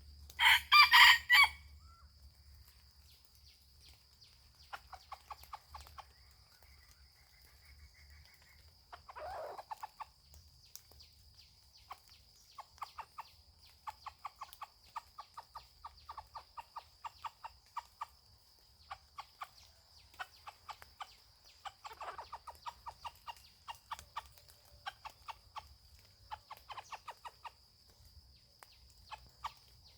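Rooster crowing loudly once near the start. This is followed by a softer call around nine seconds in and many runs of quick, rapid clucks.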